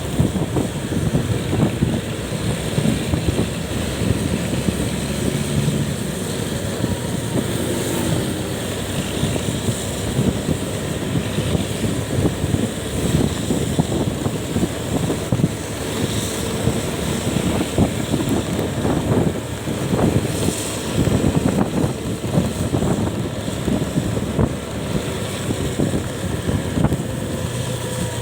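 Wind buffeting the microphone over steady vehicle and road noise while riding.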